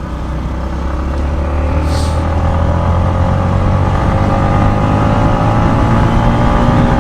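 Yamaha MT-15's 155 cc single-cylinder engine pulling under throttle, its note rising slowly and getting louder as the bike accelerates.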